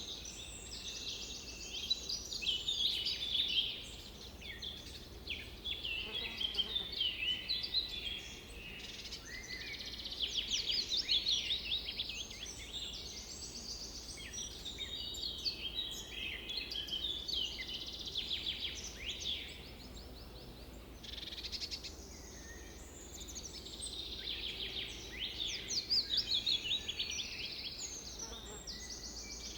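Several songbirds singing and calling at once in a dense, overlapping chorus of quick chirps and rapid trills, over a faint low rumble.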